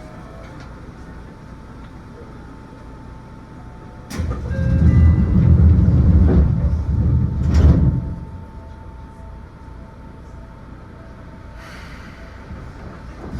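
Seibu New 2000 series electric commuter train running, heard from inside the car: steady rolling noise with faint steady tones, and a loud low rumble that swells about four seconds in and dies away about four seconds later.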